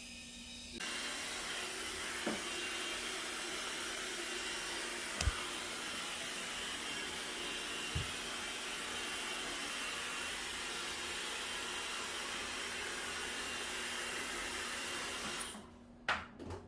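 Hair dryer running with a steady blowing hiss, switched on about a second in and cut off shortly before the end; two brief low thumps sound partway through.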